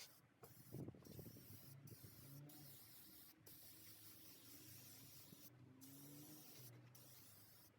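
Near silence, with a faint even hiss.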